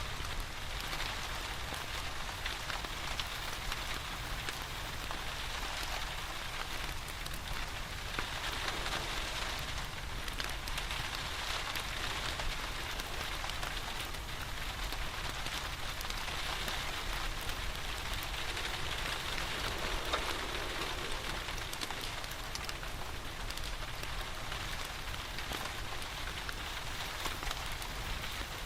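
Steady rain falling and pattering, with fine ticks and pops from a crackling fireplace mixed in.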